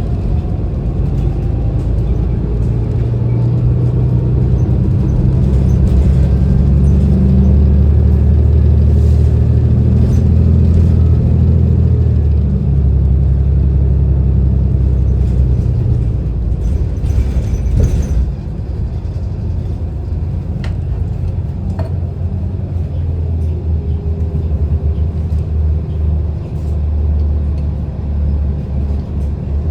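Inside a city transit bus under way: the engine and road make a steady low rumble. The rumble is heavier through the first half and eases off about halfway through, with a few light rattles and clicks.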